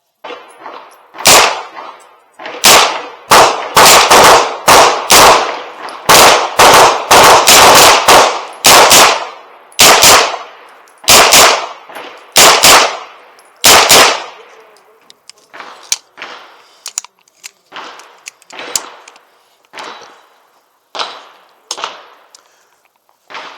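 Semi-automatic fire from a 9mm Aero Precision EPC-9 pistol-caliber carbine: about two dozen sharp shots in quick, uneven strings during the first fourteen seconds. Fainter, scattered shots follow until near the end.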